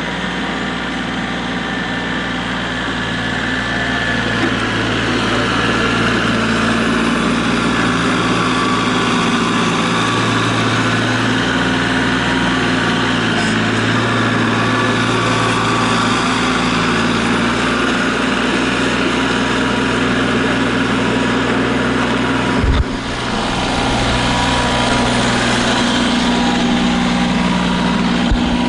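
Tractor engine running steadily under load, its pitch rising and falling a little. A single sharp knock about three-quarters of the way through.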